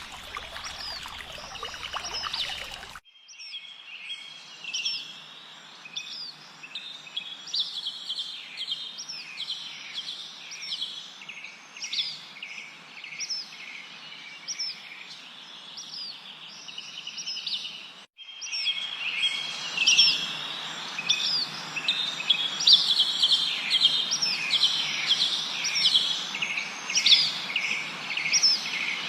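Many small songbirds chirping in a dense chorus of short, quick, repeated notes, with faint steady hiss beneath. It opens with a few seconds of even hiss that cuts off suddenly, and the chorus grows louder after a second abrupt break about two-thirds of the way in.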